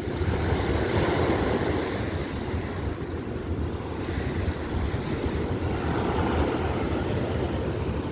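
Wind buffeting the microphone over the steady rush of a fast-running river current, a low, even rumble with no distinct events.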